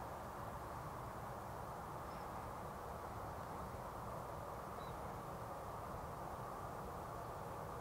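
Steady, faint outdoor background rumble and hiss, with two faint high chirps about two and five seconds in.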